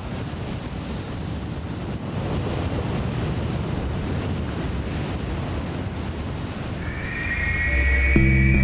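Rough sea and wind: a steady rush of waves. Music comes in near the end.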